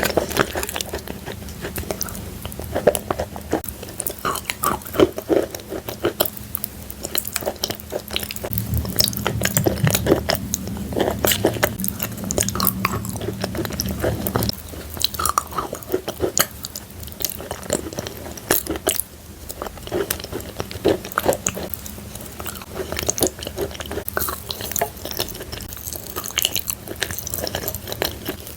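Close-miked biting and chewing of chalk coated in clay paste: a dense, irregular run of crisp crunches and crackles.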